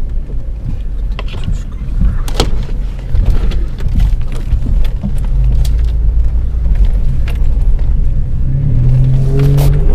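Off-road jeep's engine running under a steady low rumble, with scattered knocks and rattles from driving over rough ground. Near the end the engine revs up.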